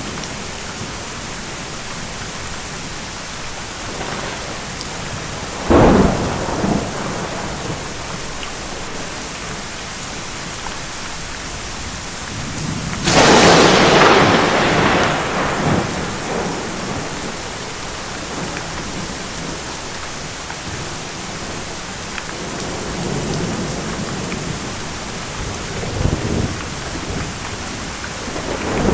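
Steady heavy rain on a surface with thunder: a sharp clap about six seconds in, a longer, louder rolling peal about halfway through that dies away over a few seconds, and a smaller rumble near the end.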